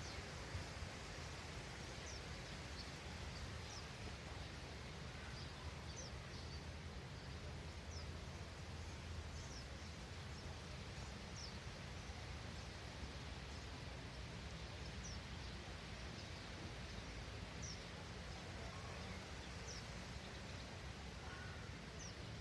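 Small birds giving a dozen or so short, high, falling chirps, scattered every second or two, over a steady outdoor hiss and low rumble.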